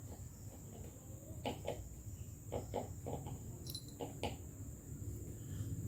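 A steady high-pitched insect drone, with a chicken clucking several short times in the middle.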